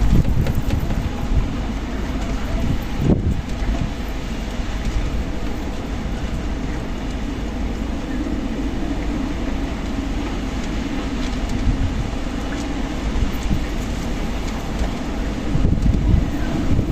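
Strong desert wind blowing: a steady, low rushing noise that swells a little near the end.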